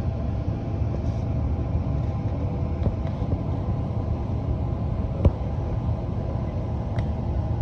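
Steady low rumble and faint hum inside a Queensland Rail suburban electric train carriage, with a few sharp clicks; the loudest comes about five seconds in.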